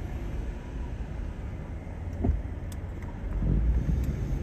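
A vehicle engine running with a low rumble, growing louder about three and a half seconds in, with a short knock about two seconds in.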